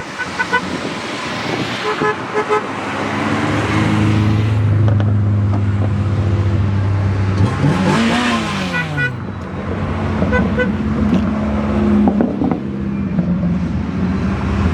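Renault cars' engines running, one revved up and let fall back about eight seconds in, with several short car horn toots.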